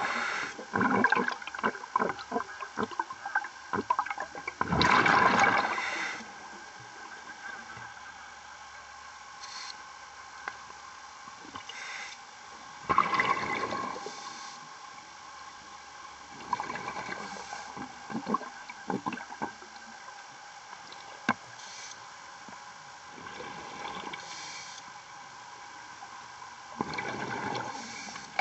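Scuba diver breathing underwater through a regulator: gurgling bursts of exhaled bubbles every few seconds, with scattered clicks and a faint steady hum.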